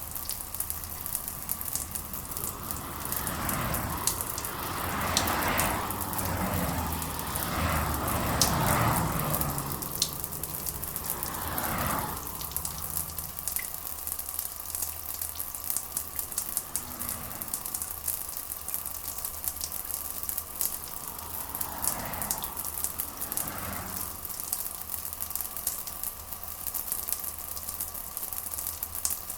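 Steady rain with dense pattering drops. A few louder, muffled swells of sound rise and fall over the first twelve seconds and again about twenty-two seconds in.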